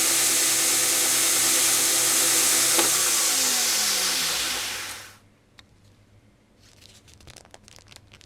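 An electric power tool runs with a loud steady rushing noise. About three seconds in it is switched off: its motor pitch falls as it winds down, and it stops about five seconds in. Light clicks and taps of handling follow.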